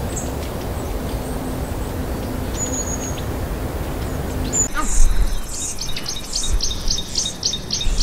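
Outdoor nature ambience: a steady rushing noise with a few faint, high bird chirps. About two-thirds of the way in the ambience changes to a songbird calling over and over, two to three chirps a second, over a low rumble.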